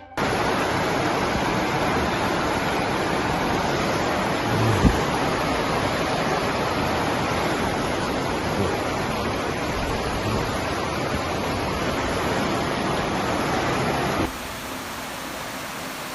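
Loud, steady rush of water, with a brief thump about five seconds in. About fourteen seconds in it cuts to a quieter hiss.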